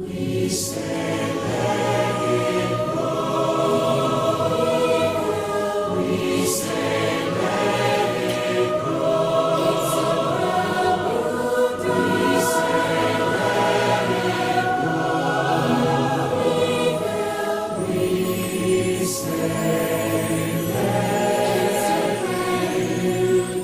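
Music: a large choir singing over an instrumental backing, with sustained chords and a few short sharp accents along the way.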